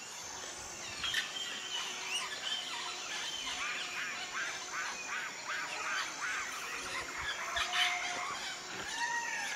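Birds calling in a busy chatter of many short, quick chirping notes, with a longer arching call near the end.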